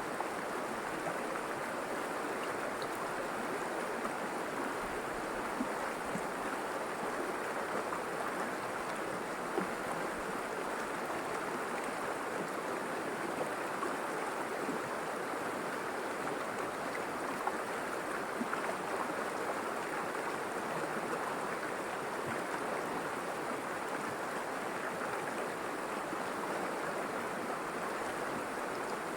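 River water flowing and splashing in a steady, even rush, with tiny scattered splashes and droplet ticks.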